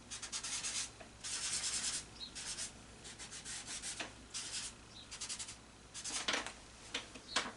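Paper towel rubbing over a colored-pencil drawing on paper, in short bouts of quick back-and-forth strokes with brief pauses between, wiping out and lightening some of the color.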